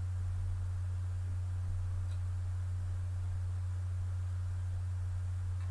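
Steady low electrical hum, one unchanging low tone, with a faint small tick about two seconds in.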